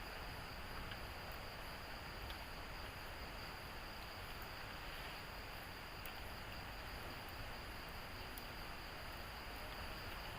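Steady chorus of insects, crickets or cicadas, giving a constant high buzz over a low, even background hiss, with a few faint clicks.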